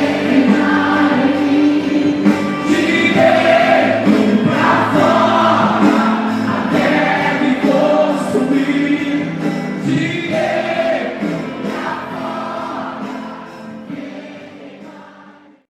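Gospel worship music: voices singing long phrases over held chords. It fades out and stops just before the end.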